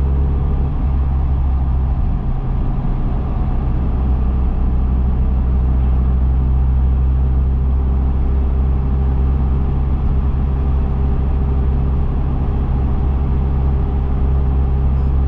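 Dodge Viper SRT10's 8.4-litre V10 cruising at a steady speed, a steady low drone heard from inside the cabin.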